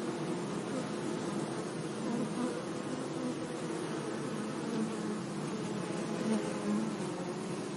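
Bees buzzing steadily among flowers, several hums overlapping, their pitch wavering and swelling as individual bees pass closer.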